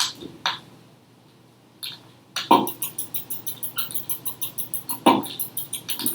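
Beatboxing: a few scattered mouth clicks and pops, then a steady beat starts about two and a half seconds in. The beat has fast hi-hat-like ticks and a heavier hit every couple of seconds.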